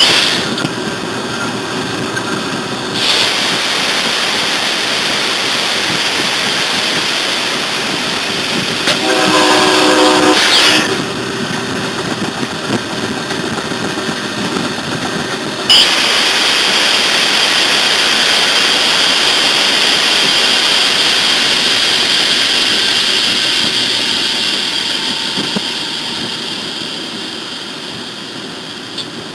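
A train running, heard from on board, with a horn blast of about two seconds some nine seconds in. About sixteen seconds in there is a sudden sharp sound, then a steady high-pitched noise that slowly fades.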